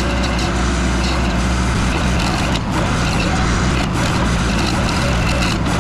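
Case TL100 mini skid steer running at work with a Toro hydraulic stump grinder attachment: a loud, steady machine noise with a deep engine drone and a few brief dips.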